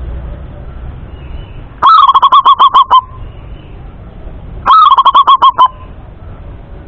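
Male zebra dove (perkutut) singing two cooing phrases, each a quick run of about ten short, clear notes. The first starts about two seconds in and the second follows a couple of seconds later.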